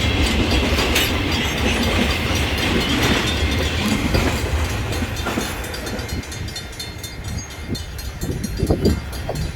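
A train rolling past, its wheels clicking rhythmically over the rail joints, with a low rumble that gradually fades as the train moves away.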